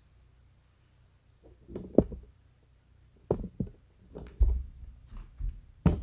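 A run of irregular knocks and thumps, starting about two seconds in and coming several at a time toward the end.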